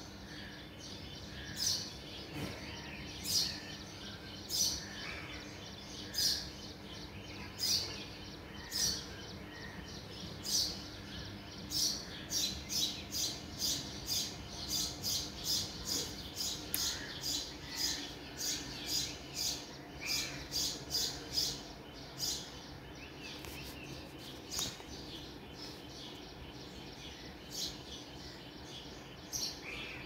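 Small birds chirping repeatedly, with a quick run of chirps in the middle. A faint steady low hum runs underneath.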